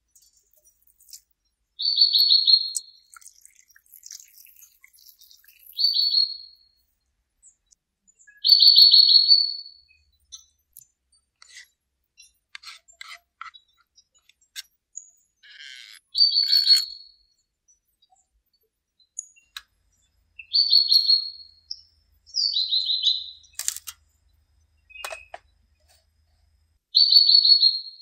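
A bird calling repeatedly: about eight short, harsh calls, each under a second, spaced a few seconds apart, with a few faint clicks in between.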